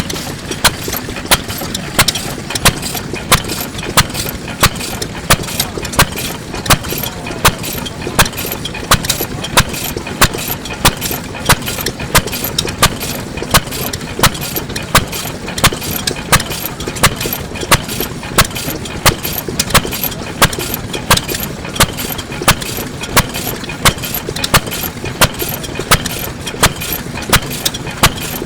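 Kubota Type F 2.5 hp single-cylinder stationary kerosene engine running steadily. It fires with an even, sharp beat about every half-second, with lighter mechanical clicks between the beats.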